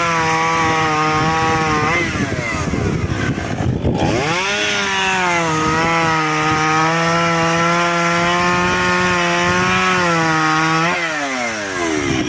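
Chainsaw running at full throttle, cutting firewood. The engine eases off about two seconds in, revs back up for a second long cut and drops back again near the end.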